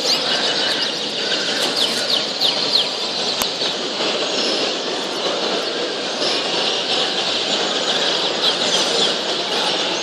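Many colour canaries chirping and singing at once, a dense, continuous chatter of quick, high, sweeping notes.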